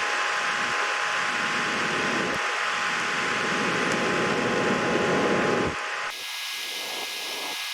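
Steady fan-like hiss with two faint steady hums. About six seconds in, the sound changes abruptly: the low part drops away and a thinner, higher hiss takes over.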